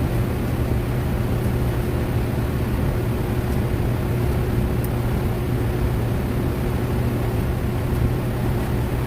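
Steady mechanical hum with a constant noisy hiss and a low drone, unchanging throughout.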